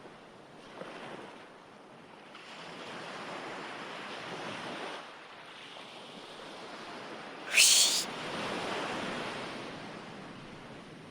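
Recorded ocean waves washing onto a shore, rising and falling in slow swells of a few seconds each.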